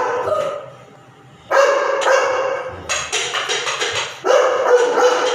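Labrador dog barking in long, drawn-out barks, several in a row with a short pause about a second in: an irritated dog.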